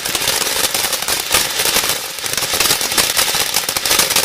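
A firework going off with a dense, continuous crackle of rapid small pops.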